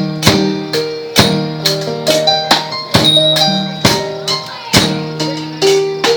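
Thai brass band (trae wong) playing: wind instruments carry a melody in long held notes over a steady percussion beat of about two strikes a second.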